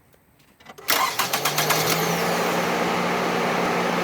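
2005 Scion tC's four-cylinder engine starting about a second in: a brief crank and catch with a few sharp firing strokes, then settling into a steady idle.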